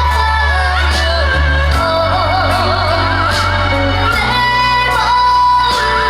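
A song sung live with wide vibrato over a loud backing track with a heavy bass line.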